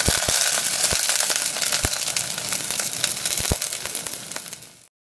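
Oil sizzling and crackling in a pot as carrots fry and water-soaked shaved burdock is tipped in from a mesh strainer, with a few sharp knocks. The sound cuts off abruptly near the end.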